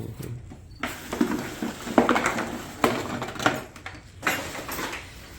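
Irregular clinks and knocks of small hard objects being handled and set down, half a dozen sharp taps over a few seconds.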